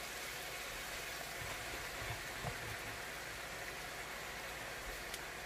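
Oil and food sizzling in a hot wok, a steady even hiss, with a few soft low bumps about two seconds in as sliced mushrooms go into the pan.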